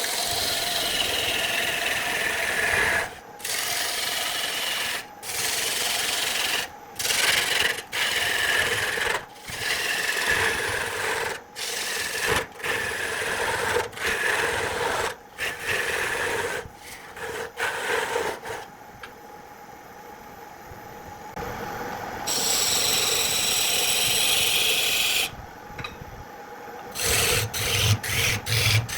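A hand tool worked back and forth on wood in repeated long rasping strokes, each about one and a half to two seconds long with short breaks between them. Near the end the strokes stop, a different, higher-pitched sound runs for about three seconds, and a few sharp clicks follow.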